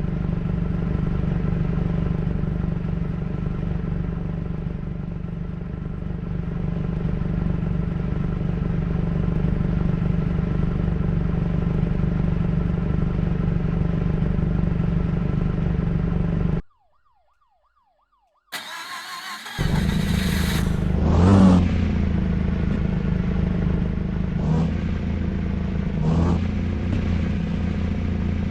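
Motorcycle engine running steadily on the move. It cuts off abruptly to silence a little past halfway, then resumes after a short noisy burst, with a few short revs near the end.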